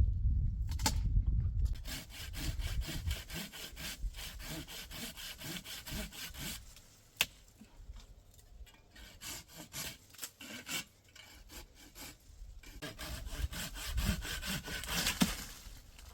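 Hand saw cutting wood in quick, even back-and-forth strokes, easing off to sparser strokes in the middle and picking up again near the end.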